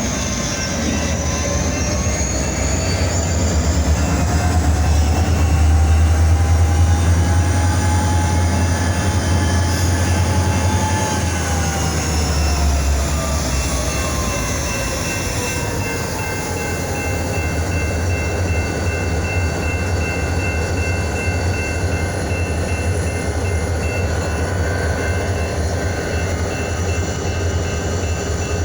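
Diesel-electric freight locomotive working close by: a deep, steady engine drone with a whine that rises slowly for about ten seconds and then falls away over the next five, as the throttle is opened and then eased back. A thin, steady high tone runs through the second half.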